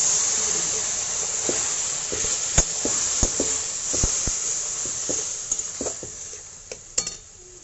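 Half-boiled, wet taro leaves hitting hot oil in a kadai: a loud sizzle, strongest at first, that slowly dies down and fades near the end. A few sharp knocks cut through it.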